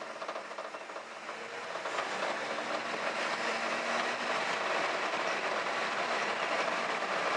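A 1964 Ford F100 pickup's engine runs and the truck rolls in first gear, a steady rattling mechanical noise that builds over about the first two seconds and then holds.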